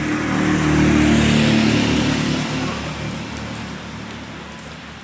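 A motor vehicle passes by over the steady noise of heavy rain and hail. Its engine hum and tyre hiss swell to a peak about a second in, then fade away.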